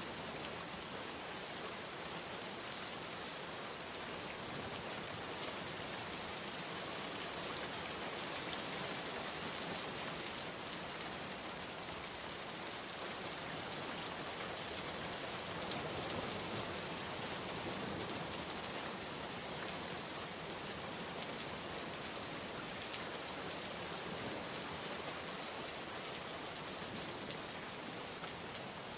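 Steady rain falling on a surface, an even hiss of many drops with no breaks or thunder.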